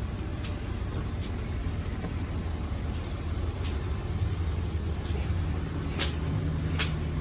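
Steady low rumble of vehicle engines, with a few short sharp clicks scattered through it and a brief low hum rising near the end.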